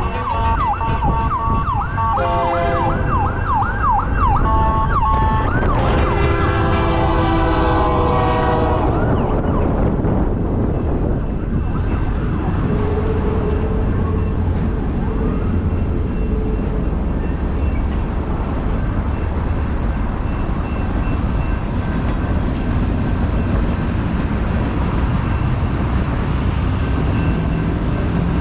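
An emergency vehicle's siren yelps in quick rising-and-falling sweeps over a low rumble for the first six seconds or so, then a diesel locomotive's multi-note horn sounds a chord for about three seconds. After that a BNSF freight train rumbles steadily past.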